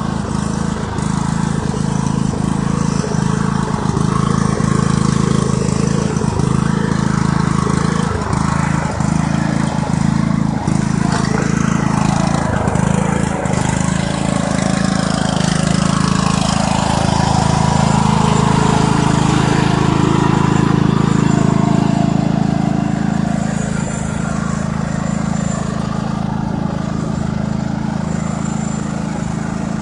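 Small tractor engine running steadily while the tractor is driven, growing slightly louder for a few seconds past the middle and then easing back.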